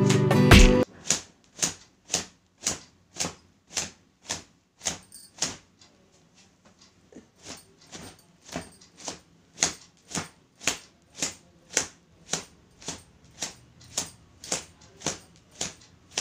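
Long wet hair being towel-dried by slapping it with a towel: short, sharp slaps come about twice a second, with a brief pause about six seconds in. Guitar music cuts off just under a second in.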